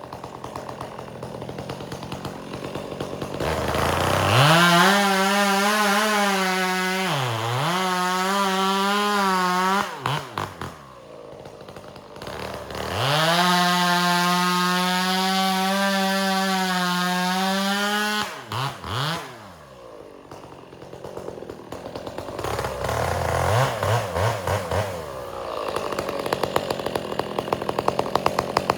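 Chainsaw bucking firewood: it idles, then runs at full throttle through two cuts of about six and five seconds, dropping back to idle between them. In the first cut the pitch dips sharply once and recovers as the chain bogs in the wood. Near the end come a few lighter revs.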